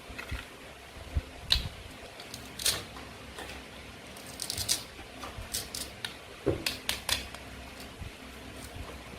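Irregular sharp clicks and taps of toy play food being handled and cut, with a quick flurry of clicks about halfway through.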